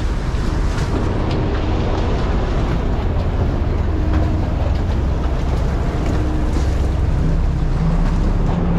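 A fishing boat's engine running steadily under way, with wind and water noise over it.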